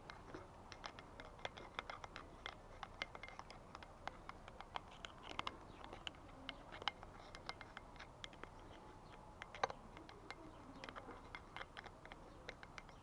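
Irregular light clicks and scratching, a few a second, of small tools and parts being handled and cleaned, with one louder click late on.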